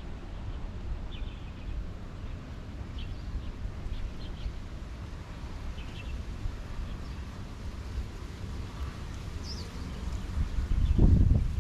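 Strong wind rumbling on the microphone, with short bird chirps scattered through. A louder gust of wind comes near the end.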